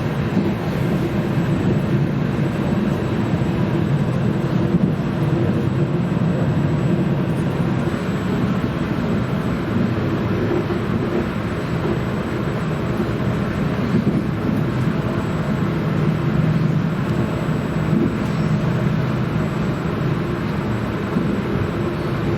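Regional passenger train in motion: a steady, even running noise of the train travelling along the track.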